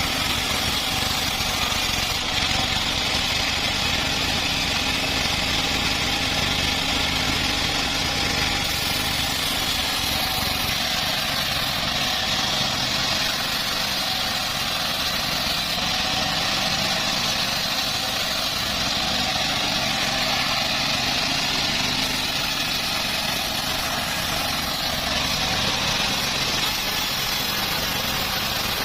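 Engine of a home-built bandsaw sawmill running steadily, with a constant high hiss over its low running sound.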